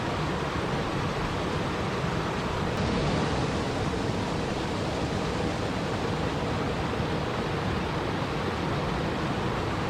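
Steady rushing water noise, an even hiss with no separate splashes or drops, brightening slightly about three seconds in.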